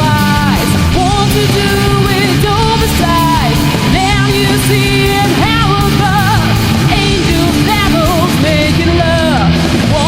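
Alternative rock song played by a full band, loud and dense, with a lead melody that bends and slides in pitch over the band.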